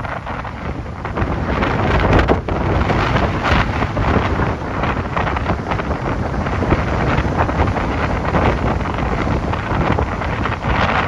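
Strong typhoon wind gusting and buffeting the microphone, with a louder gust about two seconds in.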